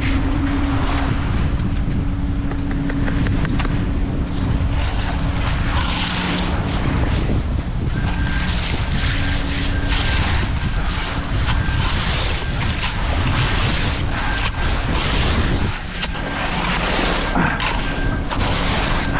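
Strong wind buffeting the microphone, with an engine running steadily underneath. From about eight seconds in there is a faint, regularly repeating high beep.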